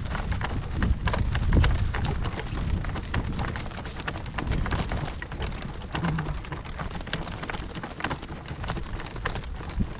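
A horse being driven in harness, moving over soft, dusty ground: a dense run of small clicks and rattles from hooves and harness over a low rumble.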